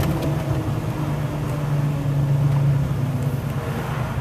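A car engine and road noise heard from inside the moving vehicle: a steady low drone.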